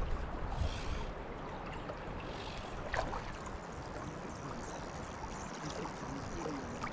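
River current running and gurgling in fast water, a steady rush with one short knock about three seconds in.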